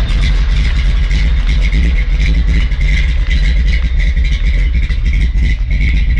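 A 383 stroker small-block Chevy V8 with a thumper cam running, a loud, steady low rumble made of rapid, uneven firing pulses.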